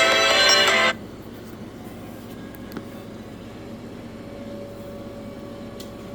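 A phone ringtone's melody cuts off abruptly about a second in, followed by a steady low hum and hiss with no tune.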